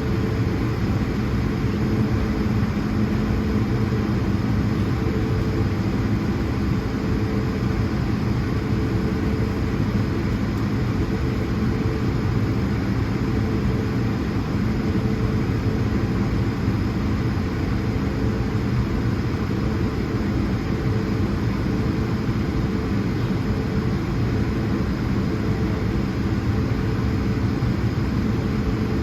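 Airbus A220-100's Pratt & Whitney PW1500G geared turbofan engines running steadily, heard from inside the passenger cabin: an even hum with a few steady tones and a constant rush of air noise.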